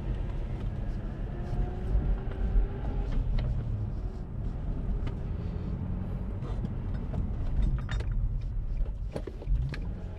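Infiniti G35 sedan's VQ35 V6, fitted with an aftermarket intake, running under way as heard inside the cabin, with road noise; the engine note rises a little early on as the car pulls. A few sharp clicks come near the end.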